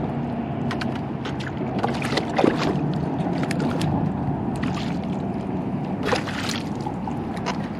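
Steady wash of water and wind noise on a fishing kayak, with scattered light knocks and clicks.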